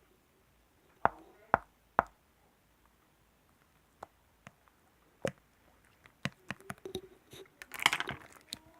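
Sharp taps and clicks on an object: three strong ones about half a second apart near the start, a couple of lone ones, then a quicker run of clicks and rustling that builds up near the end.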